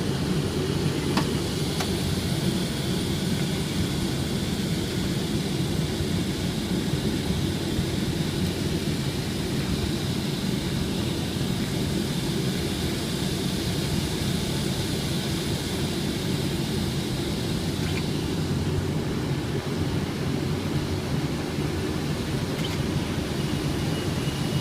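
Steady cockpit noise of a Boeing 777 on final approach: an even low rumble of airflow and engines, with a few faint clicks and a faint high tone near the end.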